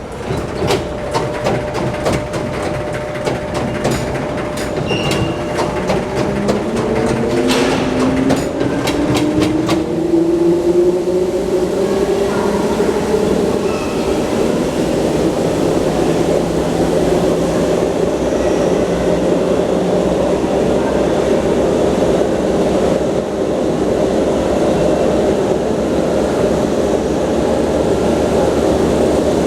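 A JNR 101-series CS-12 main controller being run through its power notches. Its contactors click in quick succession for about the first ten seconds. Meanwhile a motor whine rises in pitch as the train sound 'accelerates', then levels off into a steady drone as it coasts.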